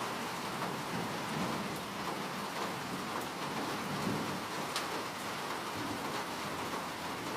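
Steady rain falling as an even hiss, with low rumbling swelling up beneath it twice and one sharper drop hit about two-thirds of the way through.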